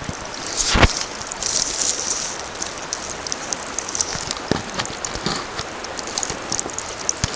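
A small river running over a little waterfall: a steady rush of water, broken by a few sharp knocks, the loudest about a second in.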